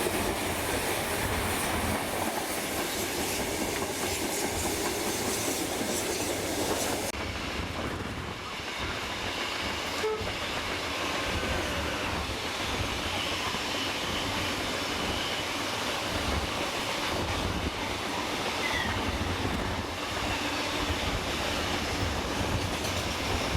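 Steam-hauled train running along the track with a steady, low rumble. The higher hiss drops away abruptly about seven seconds in.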